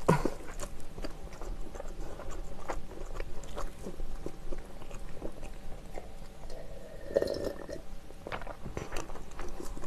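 Close-miked chewing of sauce-coated fried chicken: a loud bite at the start, then a steady run of small wet clicks and crackles as the mouthful is chewed.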